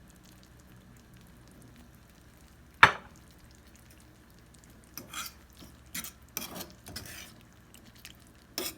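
A utensil knocks sharply against a pan once about three seconds in, then stirs chicken, onion and tomato sauce in the pan with a series of scraping, clinking strokes from about five seconds in.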